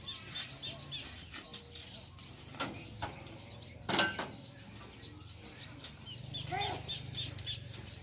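Small birds chirping in short, quickly repeated high notes near the start and again toward the end, over a low steady hum. A few sharp knocks, the loudest about four seconds in, come from work on the scaffolding and column formwork.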